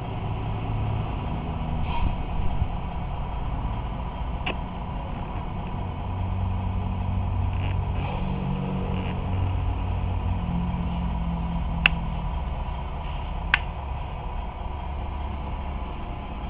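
Truck engine running, its pitch rising and falling with engine speed, with three sharp clicks spread through the middle and later part.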